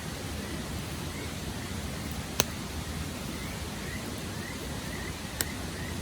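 Wood fire burning in a fire stand: a steady hiss with two sharp pops of crackling wood, about two and five seconds in. Faint short rising chirps repeat quietly in the background.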